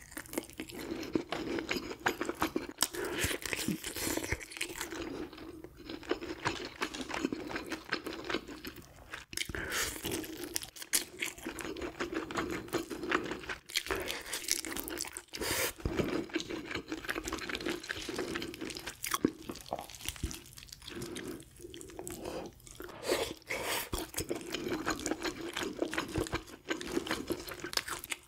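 Close-miked chewing and biting of grilled sea bream, a steady run of irregular crunches and sharp mouth clicks.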